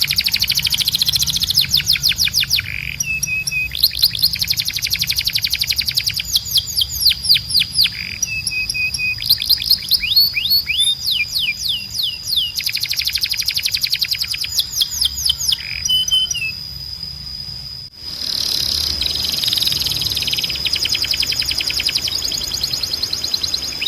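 Domestic canary singing: fast rolls of rapidly repeated downward-sweeping notes, broken by short pauses, over a steady high tone. The recording cuts abruptly to a different take about eighteen seconds in.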